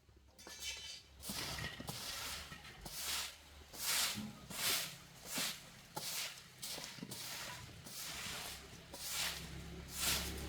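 A run of rhythmic swishing scrapes, about one and a half a second, over a low steady hum.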